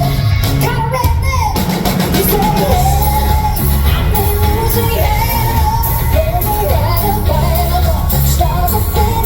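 Loud live country band with a sung melody carried over steady bass and drums, some yells from the crowd mixed in.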